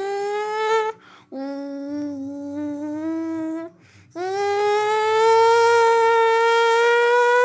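A boy imitating a car engine with his voice: long held humming drones. Two shorter drones, the second lower and steady, are followed by a louder, longer one that rises slowly in pitch.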